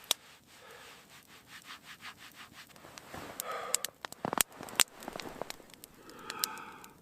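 Hands rubbed together briskly for warmth, with a breath partway through. A few sharp pops from the crackling campfire come in around the middle.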